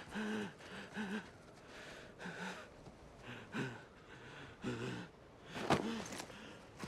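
A person gasping and grunting with effort in short, repeated breaths, with a sharp knock a little under six seconds in.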